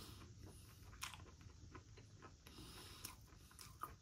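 Faint chewing of a mouthful of boneless chicken wing: soft, irregular mouth clicks, the clearest about a second in and again near the end.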